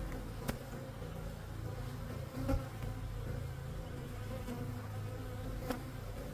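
Honey bees buzzing steadily around an opened hive, a droning hum from the crowded colony, with a few faint clicks of the frames being handled.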